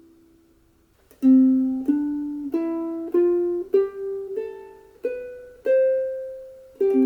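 Sumi UK-D3M soprano ukulele with a Honduran mahogany Ditson-style body, played by hand: a chord rings out and fades, then after a brief pause comes a run of about ten single plucked notes climbing in pitch. Near the end a full chord is strummed.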